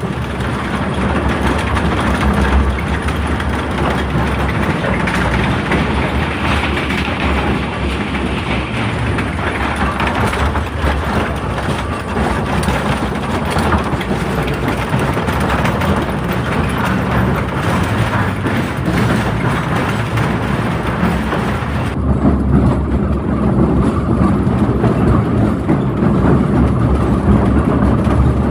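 Rail cars running along a track with a steady, loud noise and no talk. About two-thirds of the way through, the sound changes suddenly and loses its high end.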